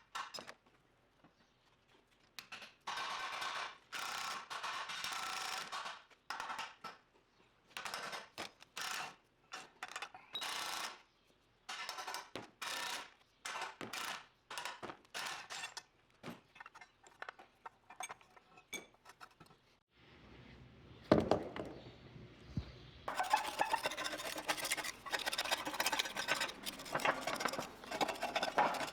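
Metal parts and hand tools clanking and scraping in short, separate bursts, busier and more continuous near the end.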